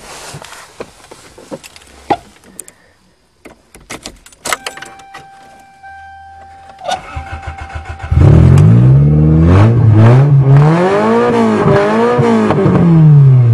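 Clicks and knocks of someone getting into the car, then a steady electronic tone from the dash. About seven seconds in, the starter cranks briefly and the Toyota GTS engine, running on a newly fitted timing belt, catches. It is revved up and down several times.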